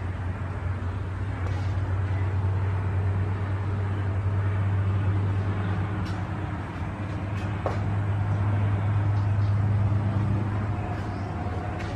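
A vehicle engine running with a steady low drone that swells a little and eases off again.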